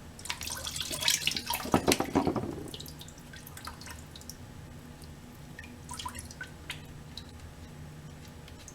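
Antifreeze coolant splashing and dripping from the motorcycle's cooling system as it overflows: a loud spell of splatter in the first couple of seconds, then scattered drips. The overflow is the sign that the system is full.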